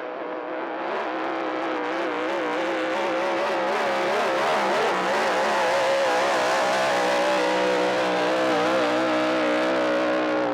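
A 5 litre racing hydroplane's engine running hard on the water. Its note wavers up and down and gets louder over the first couple of seconds, then holds steady.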